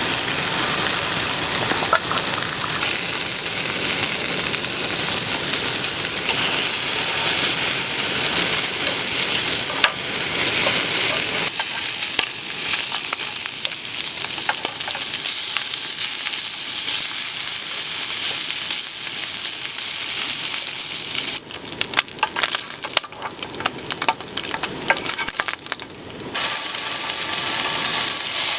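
Food sizzling in a pan on a camp stove, a steady frying hiss. From about three-quarters of the way in there is a few seconds of dense clicking and scraping as the food is stirred, and then the sizzle carries on.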